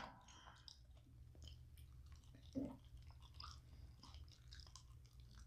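Near silence with faint chewing and mouth sounds: a few soft scattered clicks, one a little louder about two and a half seconds in.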